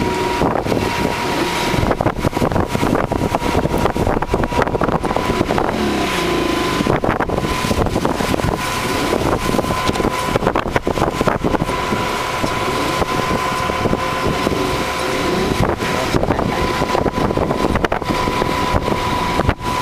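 Car engine working hard while its wheels spin and churn in deep, heavy wet snow, heard from inside the car, with a steady thin whine throughout. The car is stuck and being pulled out on a tow line.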